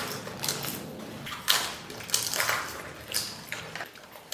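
Crisp panipuri shells crunching, in a series of short irregular crackling bursts.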